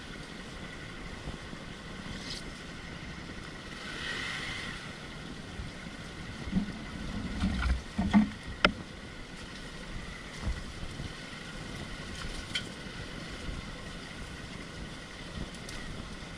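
Off-road motorcycle riding over a rough trail: a steady rumble with wind on the microphone, and a cluster of knocks and bumps about seven to nine seconds in.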